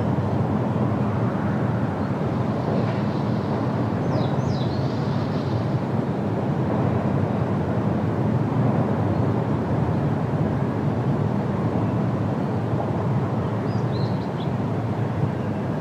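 Steady wind rushing through forest trees, a low, even noise. A few brief high bird chirps come about four seconds in and again near the end.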